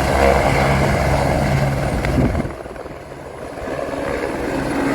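Helicopter sound effect: steady rotor and engine noise that dips in loudness about three seconds in, then builds again.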